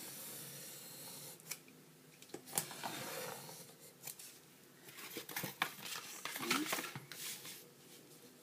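A blade cutting slowly through foam board, heard as scratchy rasping with sharp clicks that come thickest about five to seven seconds in.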